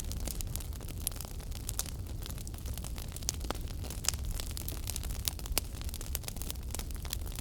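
Wood fire burning in a fireplace: a low steady rumble of flames with irregular sharp pops and crackles from the burning wood.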